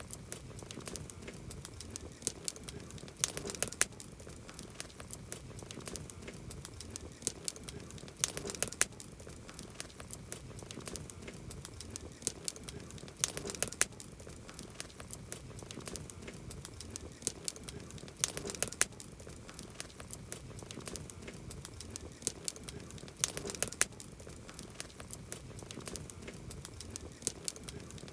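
Campfire wood burning and crackling, with constant small snaps and a cluster of louder pops about every five seconds.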